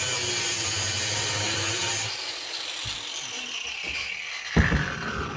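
Angle grinder running steadily, then switched off about two seconds in, its whine falling as the disc spins down. A sharp single knock about four and a half seconds in, as metal is struck or set down.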